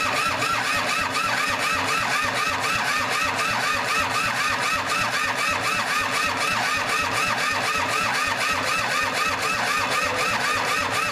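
Starter motor cranking the Kubota L2500's three-cylinder diesel engine with an even rhythm of about four to five compression strokes a second; the engine does not catch and run, with glow plugs that appear not to work and little throttle response.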